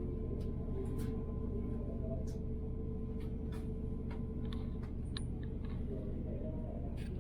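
Steady rumble of a moving train heard from inside the carriage, with a constant low hum and scattered light clicks and rattles.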